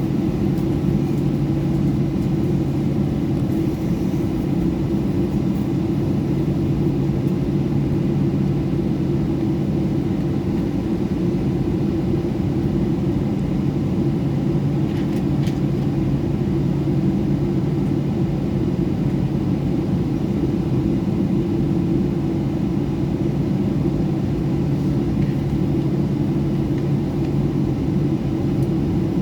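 Boeing 737-800's CFM56 jet engines running steadily, heard inside the passenger cabin: an even low hum with two steady low tones that do not rise or fall.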